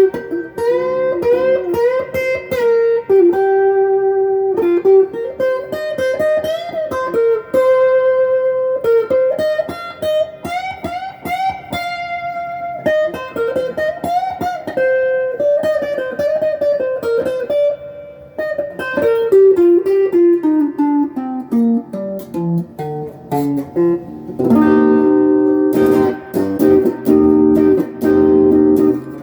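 Electric guitar played through a Crate GX15R amp with a Golden Plexi overdrive pedal: single-note lead lines with string bends, a descending run of notes about twenty seconds in, then chords near the end.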